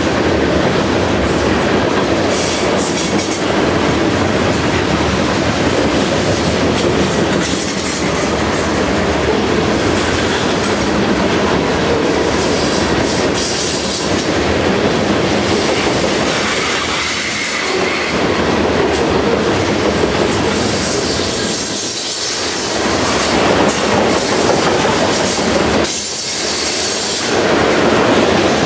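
Freight train of covered hopper cars rolling past at close range: a steady loud noise of steel wheels on rail, with repeated knocks as the car trucks go by and a brief faint wheel squeal about halfway through.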